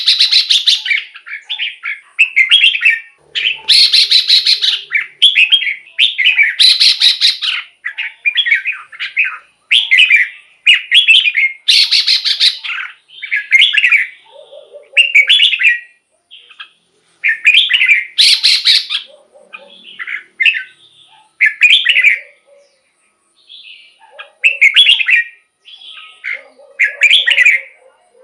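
Red-whiskered bulbul singing: loud, short phrases, one after another, with brief pauses between them.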